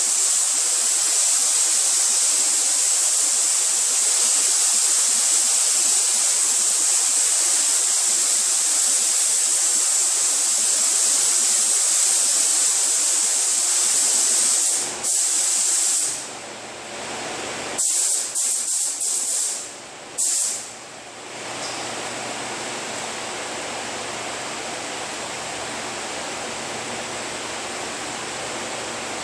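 Compressed-air paint spray gun spraying a coat onto a car body panel with a steady hiss. After about sixteen seconds it stops, a few short trigger bursts follow, and then only a quieter low steady hum remains.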